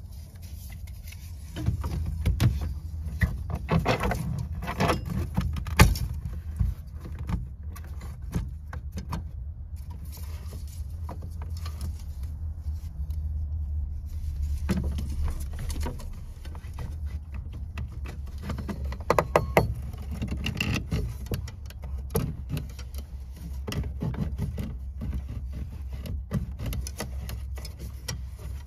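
Irregular clicks, knocks and rattles of van window blinds being handled and fitted, over a steady low hum.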